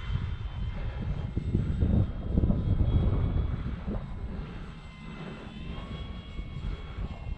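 Wind buffeting the microphone in gusts, over the faint whine of the Dynam Hawker Hurricane RC plane's electric motor and propeller flying overhead, its pitch shifting with the throttle.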